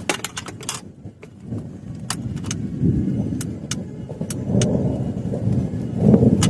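Heavy rain drumming on a camping shelter overhead: a low rumbling wash that swells and fades, with a quick run of sharp taps in the first second and single taps scattered after.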